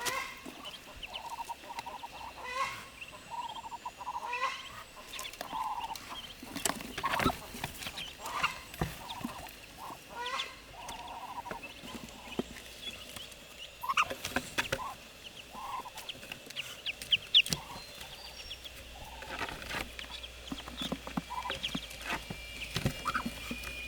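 Poultry clucking in short, repeated calls, with scattered clicks and knocks.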